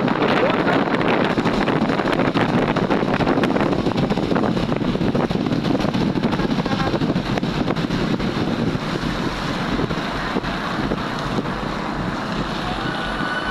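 Road traffic: a steady rush of passing vehicles, with wind buffeting the microphone.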